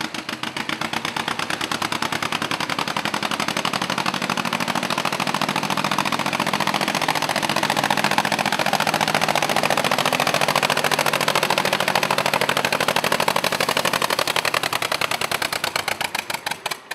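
Pulling vehicle's engine running hard under load, with a loud, rapid, machine-gun-like exhaust pulse. It stops abruptly at the very end.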